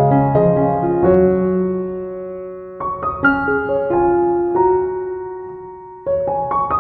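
Background music: soft piano playing slow chords and arpeggios, each note starting crisply and fading.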